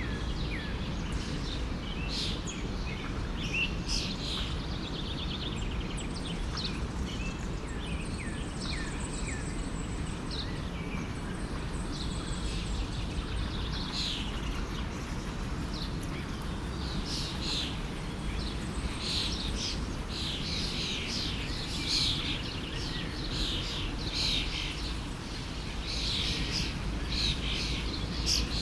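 Many songbirds chirping and calling in short, quick notes, busier in the second half, over a steady low rush of a forest stream.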